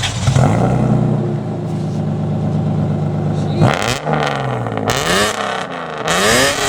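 Lexus engine started through its freshly modified exhaust. It catches with a brief flare, then idles steadily. From a little over halfway it is blipped several times, the pitch rising and falling with each rev, and it is so loud.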